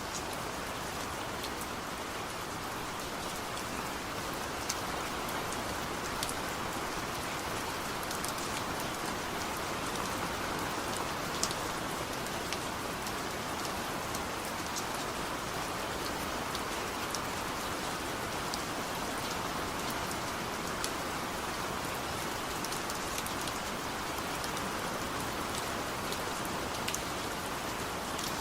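Steady rain falling, an even hiss with scattered sharp drop ticks now and then.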